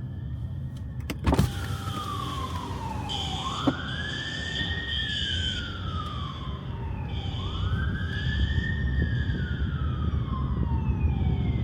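Emergency vehicle siren in a slow wail, rising and falling about every four seconds over a steady low rumble, with a sharp knock about a second in.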